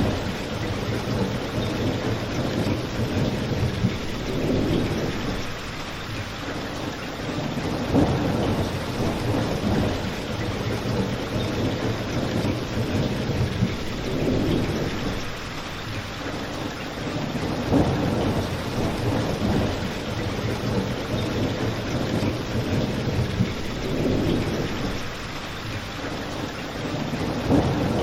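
Steady rain with a low rumble that swells and fades every few seconds, and a few sharp crackles from a fireplace.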